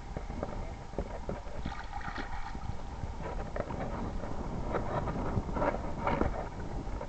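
Wind rumbling on the microphone over light, irregular splashing in shallow floodwater.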